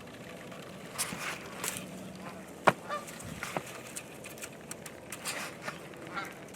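Canada goose honks and clucks, a string of short sharp calls over steady field noise, the loudest a single sharp honk a little under three seconds in.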